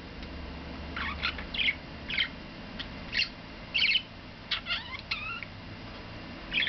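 Male budgerigar chattering and warbling: a run of short chirps with a few gliding notes about five seconds in.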